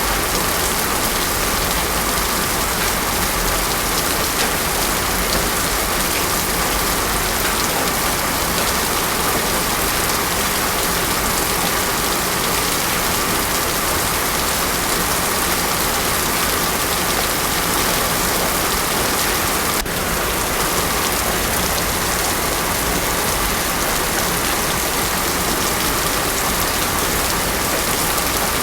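Heavy rain pouring steadily, with no thunder. A single faint click and a slight dip in level come about twenty seconds in.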